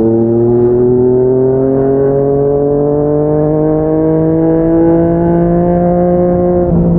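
Yamaha MT-09 three-cylinder motorcycle engine through a Yoshimura R55 slip-on exhaust, accelerating hard in one gear, its pitch rising steadily. Near the end the pitch drops sharply with an upshift.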